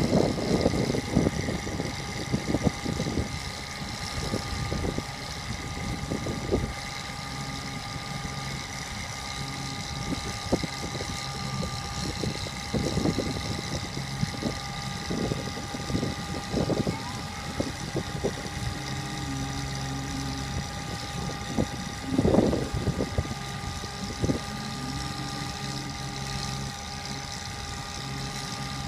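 Bucket truck engine idling steadily, with a steady high whine running over it and irregular low knocks and rumbles.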